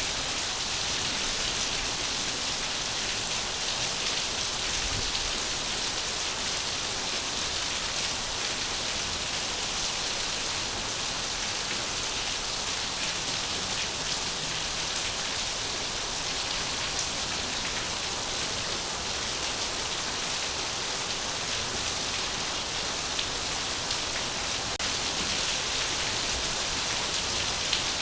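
Steady rain falling, an even hiss with fine pattering drops that does not change.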